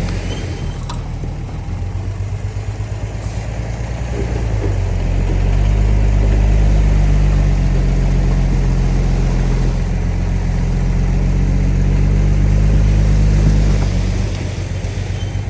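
D30 bulldozer's diesel engine running, low and steady. It revs up about a third of the way in, holds at the higher speed for several seconds, then drops back near the end.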